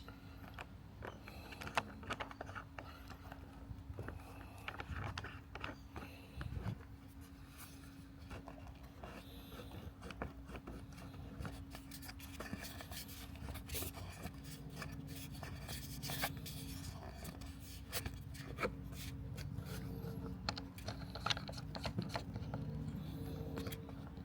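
Robotic lawn mower running with a steady mechanical hum, overlaid by frequent scraping clicks as it cuts grass. A second, lower hum joins about halfway through.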